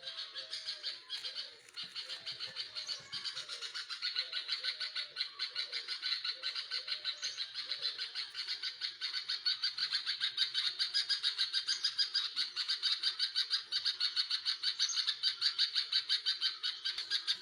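Baby birds in the nest calling in rapid, even pulses, about four a second, getting louder about halfway through. Softer, lower falling notes sound alongside in the first few seconds.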